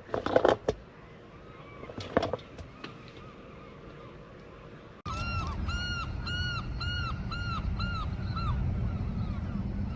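Gull calling: a run of about eight repeated, arched yelping notes in quick succession, starting suddenly about halfway through over a steady outdoor rumble.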